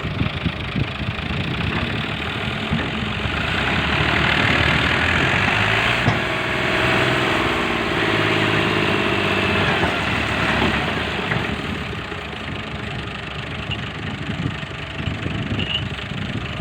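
Tractor engine running, rising in level about four seconds in and easing back down after about ten seconds.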